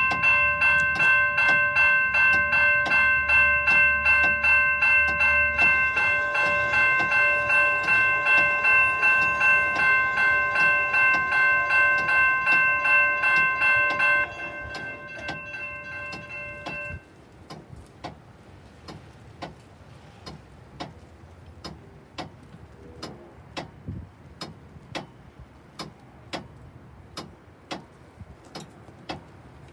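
Railroad crossing bells ringing with rapid, even strikes. Most of the ringing stops about halfway through and one bell tone carries on a few seconds longer. A faint regular ticking, about two a second, continues after it.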